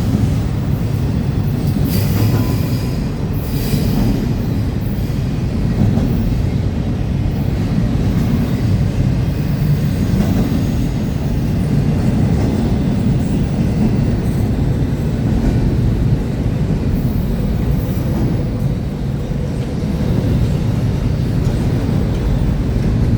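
Freight train cars rolling past: a steady rumble of steel wheels on rail, with brief high wheel squeal in the first few seconds.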